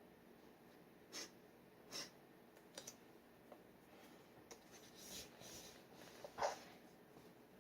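Steel G-nib dip pen scratching faintly across paper in short, separate strokes, about half a dozen of them. One louder stroke or tap comes near the end.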